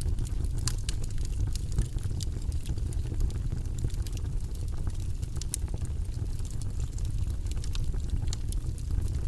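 Log fire burning in a fireplace: a steady low rumble from the flames, with many sharp, irregular crackles and pops from the burning wood.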